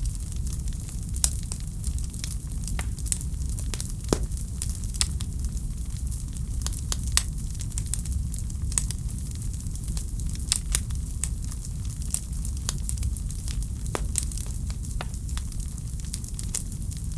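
Wood fire crackling in a fireplace: irregular sharp pops and snaps, a few louder ones scattered through, over a steady low rumble of the burning fire.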